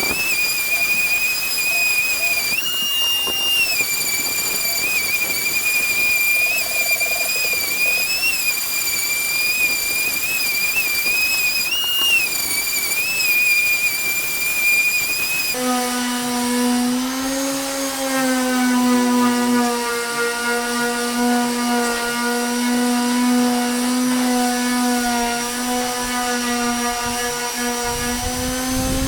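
Electric power sander running: a high, wavering motor whine for about the first half, then a sudden switch to a lower-pitched, steady motor hum with many overtones.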